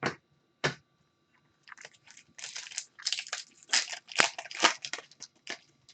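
A foil trading-card pack being torn open and crinkled, heard as a quick run of crackling rustles after two short clicks.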